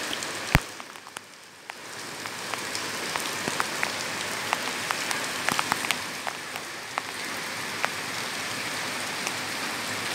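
Heavy rain falling steadily: an even hiss with many separate drops ticking close by. A single sharp knock comes about half a second in, and the rain sounds muffled and quieter for about a second after it.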